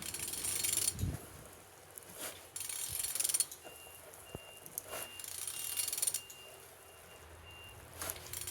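Crankshaft of a used car engine being turned over by hand with a ratchet wrench, in three strokes about a second long each, with rasping ratchet clicking and a few sharp clicks. The engine turns freely, showing it is not seized.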